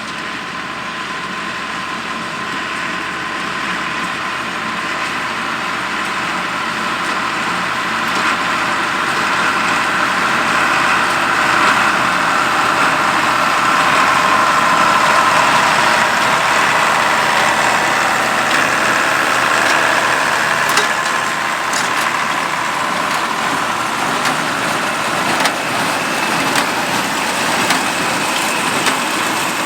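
Allis-Chalmers 200 tractor's six-cylinder diesel engine running steadily under load while pulling a square hay baler, growing louder over the first half as it comes closer.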